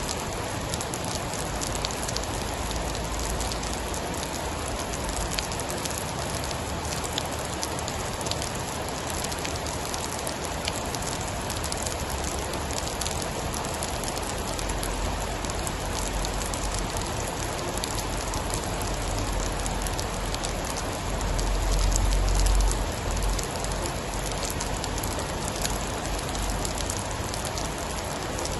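Steady rain falling, with many small drop ticks in it. A low rumble swells from about halfway through, peaks about three quarters of the way in, then fades.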